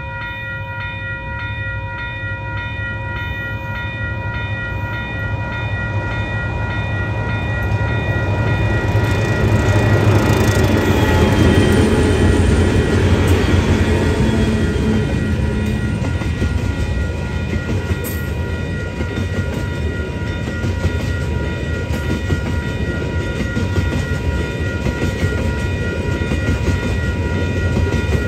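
Diesel-hauled freight train approaching and passing close by: the locomotives' engines grow louder to a peak about ten to fourteen seconds in, then a long string of covered hopper wagons rolls past with steady wheel clatter. A pulsing ringing tone of several pitches sounds through the first half and fades under the train.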